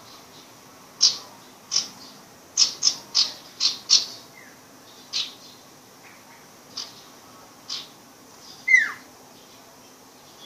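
A young sirpu bird at the learning stage of its song, giving a series of short, sharp high chips, with a quick run of five about three seconds in. Near the end comes its loudest call, a quick falling note.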